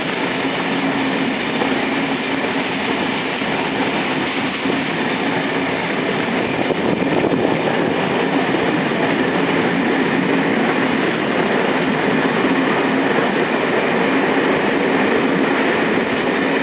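Train running along the rails: a steady rumble with a constant hum underneath.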